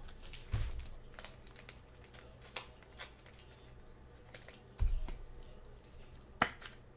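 Trading cards being handled and flipped through by hand: scattered light clicks, slides and crinkles, with a couple of dull thumps.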